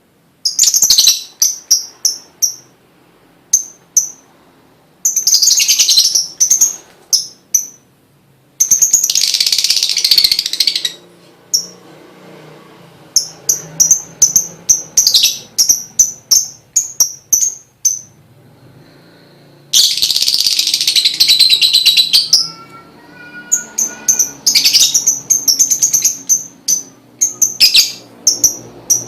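Lovebird calling: sharp, high chirps in quick series, broken three times by long rapid chattering runs of about two seconds each.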